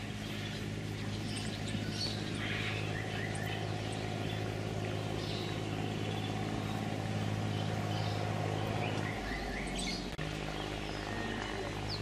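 Several birds chirping and whistling in short calls over a steady low hum, which shifts in pitch about nine seconds in.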